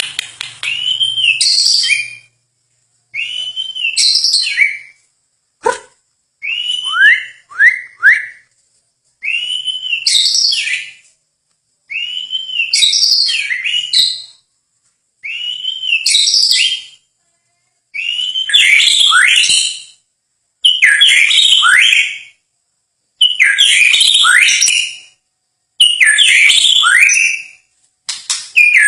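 A songbird singing the same short whistled phrase over and over, about one every two and a half seconds. Each phrase is a rising-and-falling note followed by a few quick downward sweeps. The phrases become fuller and busier in the second half.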